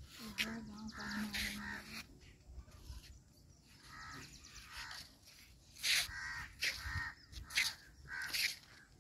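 Birds calling outdoors, with a quick run of short, repeated calls in the last few seconds.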